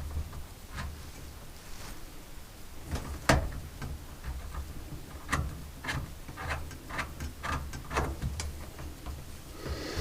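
Irregular clicks and knocks of hand tools and fittings being handled while working on a washing machine's inlet hoses and water valve, the loudest knock about three seconds in, over a steady low hum.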